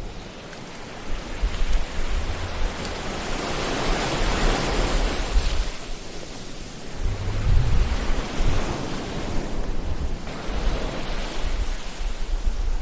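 Ocean waves washing in and drawing back, the surf swelling to a peak about four seconds in and again, with a low rumble, near eight seconds.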